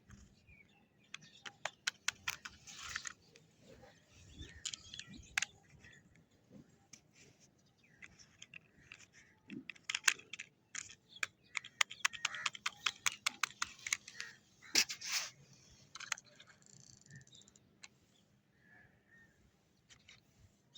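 Irregular clicks and taps with short scraping rustles, in scattered busy spells: small plastic toy construction vehicles being worked through sand.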